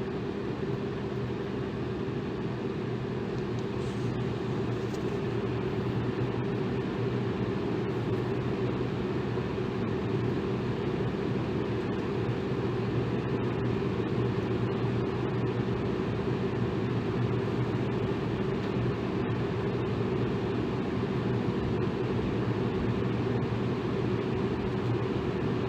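Electric fan running steadily: an even rush of air with a low, steady motor hum beneath it.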